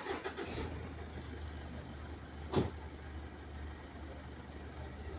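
A motor vehicle's engine running close by, a steady low hum that starts sharply, with one short sharp knock about two and a half seconds in.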